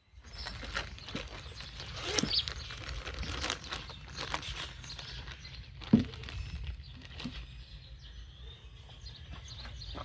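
Hands fitting small parts onto a Stihl chainsaw's throttle and choke linkages: scattered clicks, rustling and light taps, with one sharper knock about six seconds in, over a low steady hum.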